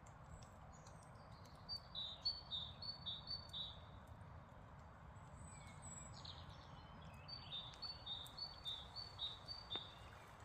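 A songbird singing: a fast series of about five high two-part notes, each stepping down in pitch, heard twice with a short pause between, over a faint steady low rumble of outdoor background.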